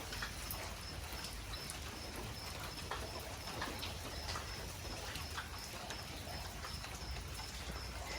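Newly lit bonfire of firewood and old mattress foam crackling, with sharp irregular pops and snaps as it catches.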